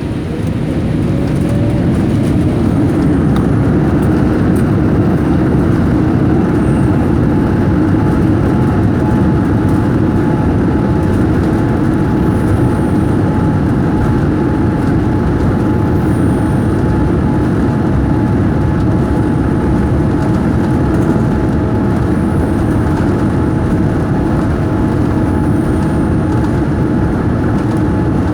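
Jet airliner cabin noise at takeoff thrust: a loud, steady rush of engine and airflow noise with a faint whine. It swells over the first few seconds, then holds steady.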